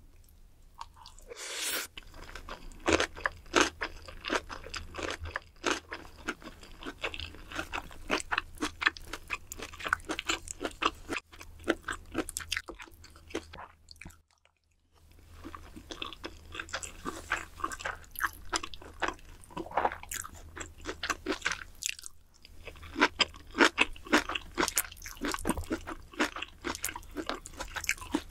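Close-miked chewing and crunching of Korean bunsik food, starting with a bite of kimbap topped with sauced rabokki noodles: dense wet, crunchy mouth sounds. They stop for about a second midway, then go on.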